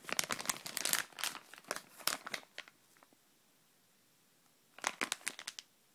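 Plastic packaging crinkling as it is handled, in a dense run of crackles for the first couple of seconds and a second short burst near the end.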